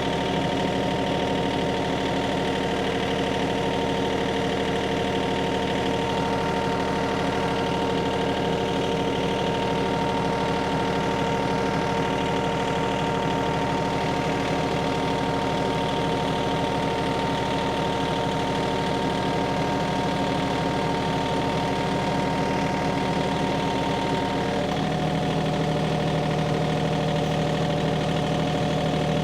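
An engine idling steadily. About 25 seconds in, its tone shifts slightly and a steady higher hum drops out.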